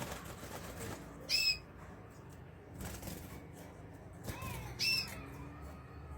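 Canary calling: two loud, short chirps about a second and a half in and about five seconds in, with a softer call just before the second.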